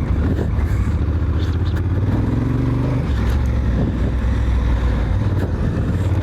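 Honda Africa Twin's parallel-twin engine being ridden on a dirt track, the revs rising and falling as the throttle is worked over whoops. There is a rise a little after two seconds and a drop at about three seconds.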